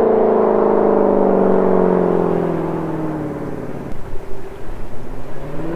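Jeep Grand Cherokee Trackhawk's supercharged 6.2-litre V8 running through a Corsa Extreme exhaust. Its note falls steadily as the revs drop off, turns to a quieter, choppy rumble for a couple of seconds, then starts to rise again near the end.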